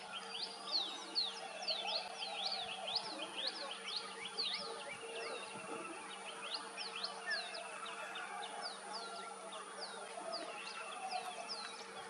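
Birds chirping: many short, high, sweeping chirps, a few a second, some overlapping, over a faint steady hum.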